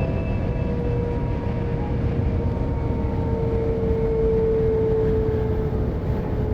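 Sanyo Shinkansen heard from inside the passenger cabin: a steady deep running rumble with a faint steady whine that grows a little louder in the middle.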